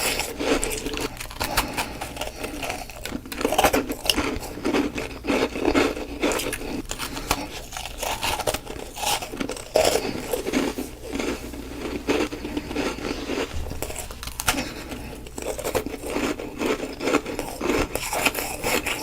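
Ice being bitten and chewed close to the microphone: a dense, irregular run of crunching and crackling.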